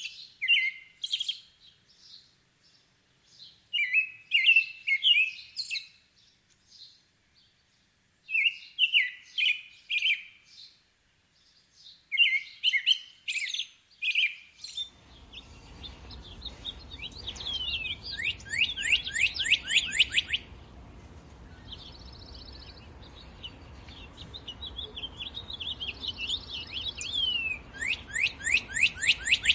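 Songbirds singing: short chirping phrases repeated every few seconds over a silent background, then about halfway the background turns to a steady low hiss and rapid trills of quick downward-sweeping notes come in, twice.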